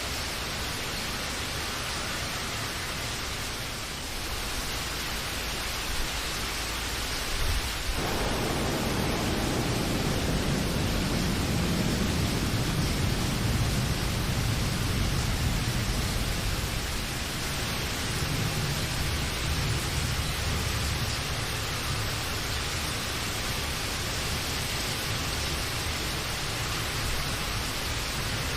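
Steady rain falling, with a long low rumble of thunder coming in about a quarter of the way through, swelling and then slowly easing off.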